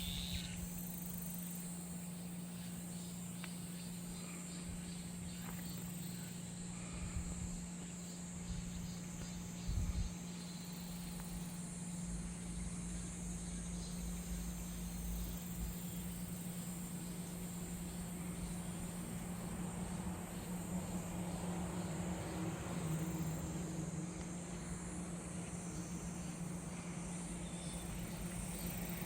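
Cicadas buzzing in a steady high-pitched drone, over a low rumble and a steady low hum.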